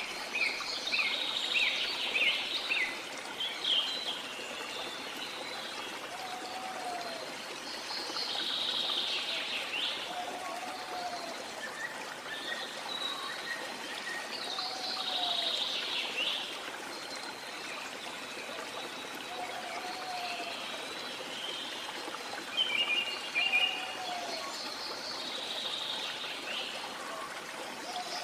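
Steady rush of a waterfall, with birds chirping and calling over it in short phrases every few seconds. A short, lower call repeats at intervals throughout.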